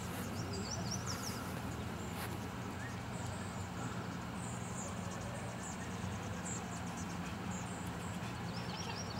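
Small birds chirping over a steady low hum, with a run of quick high chirps about half a second in and another near the end.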